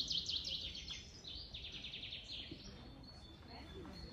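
A bird singing a fast trill of repeated high chirps that stops about two and a half seconds in, over faint outdoor background noise.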